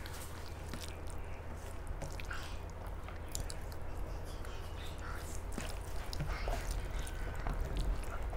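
A person chewing and eating rice with curry, with many small wet mouth clicks and smacks, over a steady low hum.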